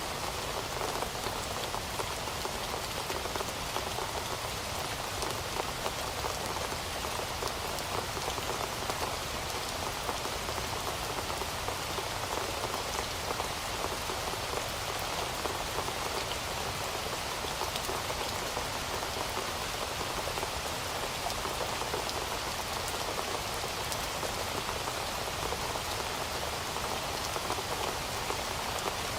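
Heavy rain falling steadily, a dense even hiss with many small drop ticks on a hard surface.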